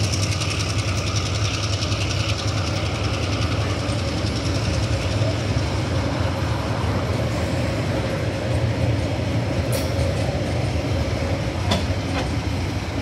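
Loaded coal hopper wagons of a freight train rolling past: a steady low rumble of steel wheels on rail, with a few sharp clanks near the end.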